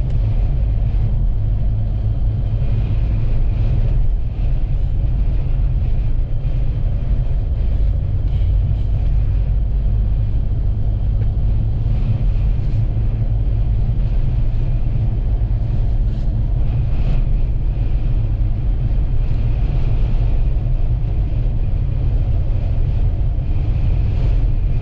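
Steady low rumble of a vehicle driving on the highway: engine and road noise, continuous and unchanging.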